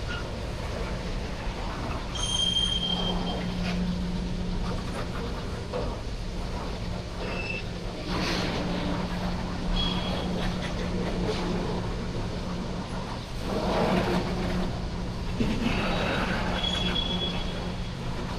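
Freight train rolling past with a steady low hum and rumble, and short high wheel squeals about two seconds in, around ten seconds in and near the end.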